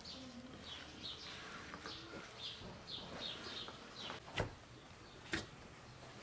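Small birds chirping in the background: a short, high, repeated call about twice a second. Near the end come two sharp knocks about a second apart.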